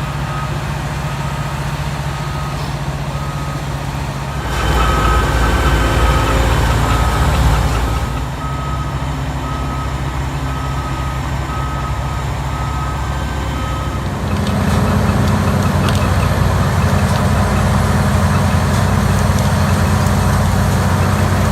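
Heavy machinery engine running steadily under load, with a reversing alarm beeping about once a second. The engine gets louder about four and a half seconds in, drops back, and swells again near fourteen seconds in, as the beeping stops.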